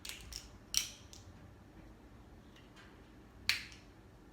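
A few sharp clicks and cracks as food and utensils are handled while eating, three of them loud: one at the start, one just under a second in, and one about three and a half seconds in, with fainter ticks between.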